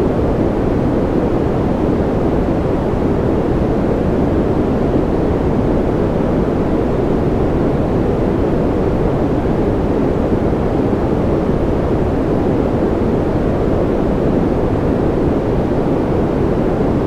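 Steady, unchanging generated noise track for sleep, sold as white noise: a deep, dull hiss with most of its energy low down and little treble.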